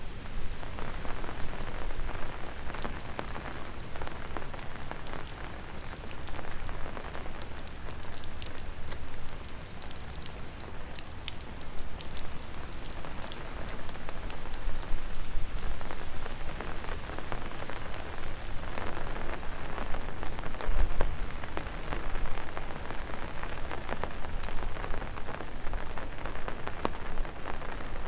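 Heavy rain drumming on an open umbrella overhead: a dense, steady patter of many small drop ticks over the hiss of rain falling all around. It swells a little louder for a while in the middle.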